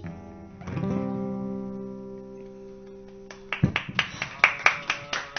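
Acoustic guitar's last strummed chord of a song ringing out and fading, then damped; right after, a few people clap in quick uneven claps.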